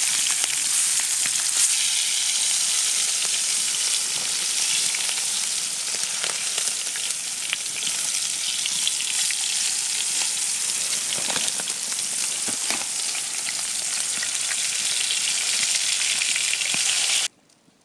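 Food sizzling and crackling in a hot frying pan: a steady hiss with scattered pops, stopping abruptly near the end.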